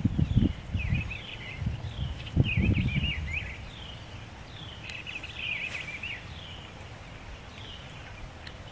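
Birds chirping in short, repeated high phrases. Low rumbling noise is loudest over the first three seconds or so, then fades.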